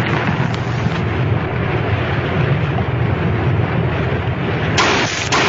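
Loud, continuous low rumbling noise from a drama soundtrack's sound effect, with a sharper, brighter burst near the end.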